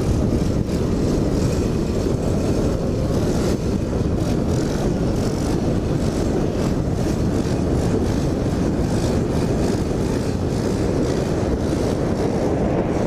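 Pit bike being ridden, its engine running under a steady rush of wind buffeting the helmet-mounted microphone.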